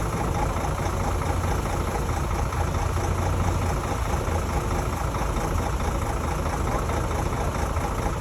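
Bulldozer's diesel engine running steadily with an even, low rumble.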